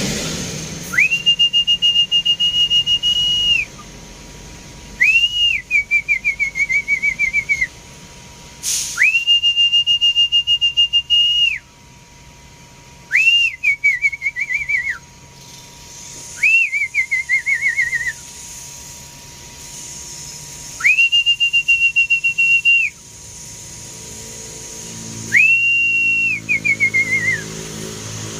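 A series of about seven loud whistles, one every four seconds or so, each swooping up to a high held note lasting one to three seconds; several break into a wavering trill that falls away at the end.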